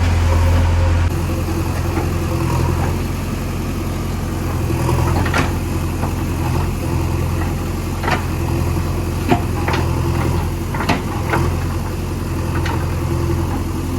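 Diesel engine idling steadily, with a handful of sharp knocks or clanks over the last two thirds.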